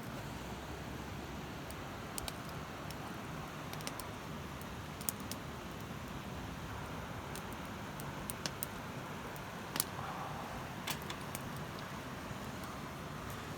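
Scattered light clicks and taps, a dozen or so at uneven intervals, over a steady low background hiss.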